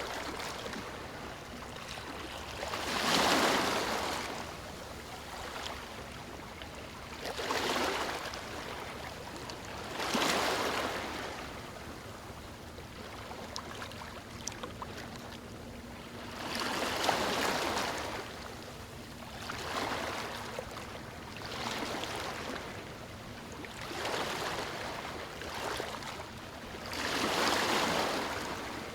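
Small waves breaking and washing in on a shore, the splashing water swelling to a louder surge every few seconds and falling back between.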